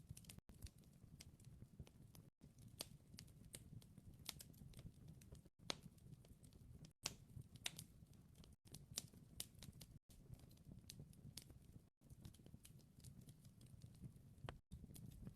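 Faint crackling of a wood fire: scattered small pops and snaps over a low, steady rumble, cut by brief silent gaps every second or two.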